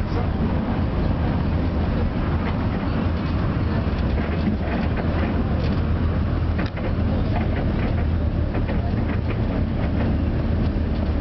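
Tram in motion: a steady running rumble with a low hum and scattered short clicks and knocks from the wheels on the rails.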